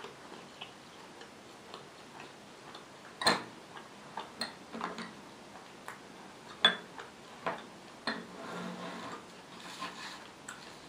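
Close-miked eating sounds: a person chewing with sharp, separate mouth clicks and smacks. Two louder clicks come about three seconds in and about seven seconds in, and there is a brief soft rustle a little after eight seconds.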